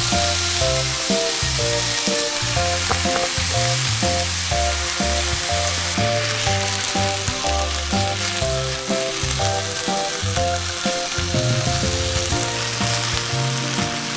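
Pork, onion and kimchi sizzling in a frying pan as they are stirred with chopsticks; the sizzle is loudest near the start, just as the kimchi goes in. Light background music with a walking bass plays underneath.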